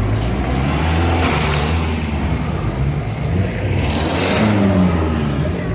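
Modified cars driving past under acceleration, their engines and exhausts swelling twice, about a second in and again louder near four seconds in, where the engine pitch climbs.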